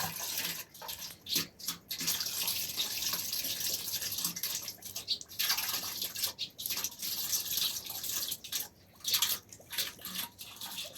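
Water running and splashing in an uneven hiss that breaks off briefly several times.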